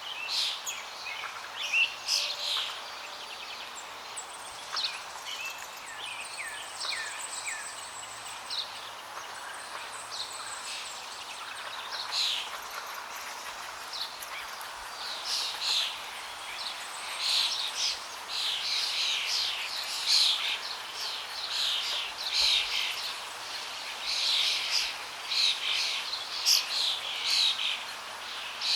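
Many small songbirds chirping and calling in quick short notes, growing busier about halfway through, over the steady rush of flowing water.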